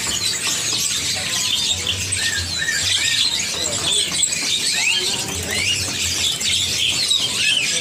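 Dense chorus of many caged small songbirds chirping and twittering over one another, with quick rising and falling whistled notes.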